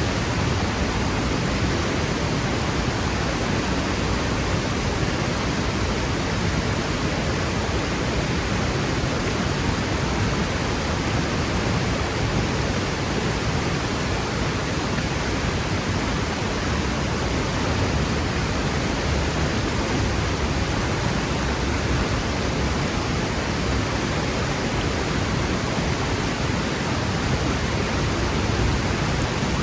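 Waterfall pouring steadily into its plunge pool: a constant, even rush of falling water with no breaks or changes.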